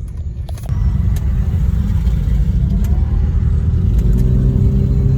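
BMW E46 being driven: low engine and road rumble that grows louder about a second in as the car accelerates, with a steady engine hum in the second half.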